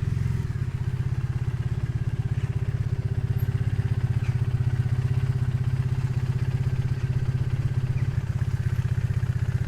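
Triumph Bonneville parallel-twin motorcycle engine running steadily at low revs, with an even, rapid pulse of firing strokes.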